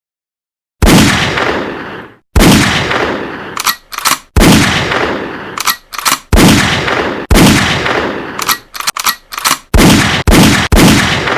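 Gunshot sound effects: about seven sharp single shots at irregular intervals, each trailing off in a long echoing decay, with short clicks between them.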